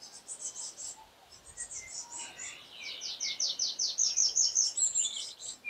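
Songbird singing in series of rapid, high, repeated notes: a short run, then from about two seconds in a longer run of sweeping notes at about five a second.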